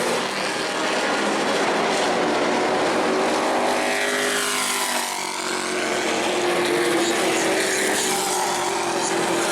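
Several race trucks' engines running at speed around a short oval track, a continuous layered drone. About halfway through, one truck goes by close and its pitch rises and then drops as it passes.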